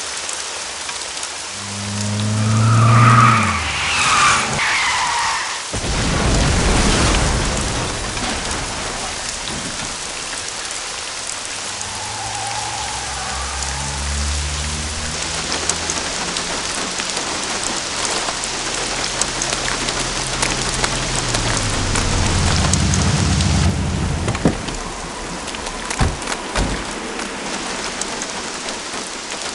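Heavy rain falling steadily on a street, with a loud rumble of thunder about six seconds in. Later, a car engine runs and draws near.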